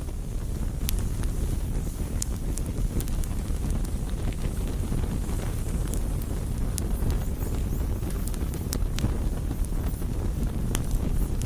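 Campfire burning: scattered sharp crackles and pops from the burning wood over a steady low rumble.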